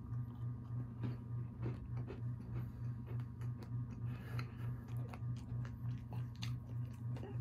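A person biting and chewing a crunchy pan dulce cookie, with faint scattered crunches. Underneath runs a steady low hum that pulses about three times a second.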